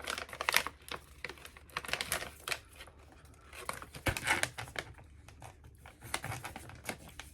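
Resealable plastic snack pouch crinkling as it is handled and opened, in scattered short rustles and clicks.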